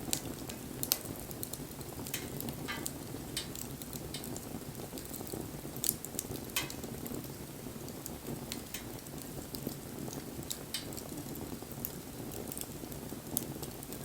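Wood bonfire burning: a steady low rush of flame, with sharp crackles and pops coming at irregular moments throughout.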